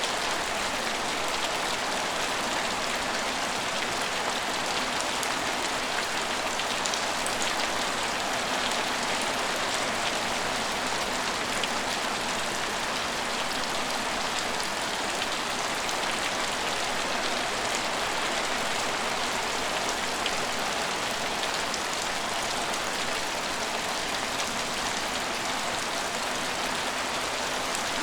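Steady rain falling on hard surfaces, an even hiss with faint scattered drop ticks.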